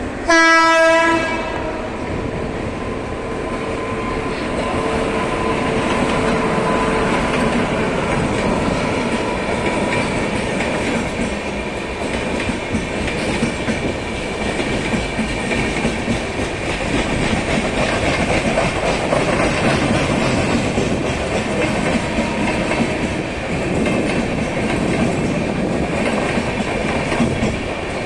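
Express train's horn gives one short blast about a second long, then the train runs on steadily, its wheels clattering over the rails.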